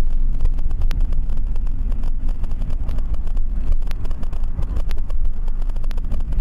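Steady low rumble of a moving car as picked up by a dashcam, with scattered small clicks and rattles.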